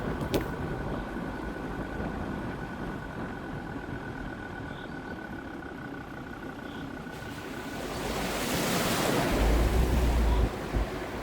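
Jeep Grand Cherokee WJ's 2.7 CRD five-cylinder diesel running as it drives off-road, with a faint steady tone under the engine noise. About eight seconds in, a rushing surge of noise builds and ends in heavy low buffeting before cutting back.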